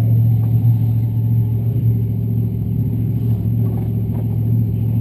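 Supercharged engine of an AA/GS gas-class drag car idling steadily, heard from inside the car.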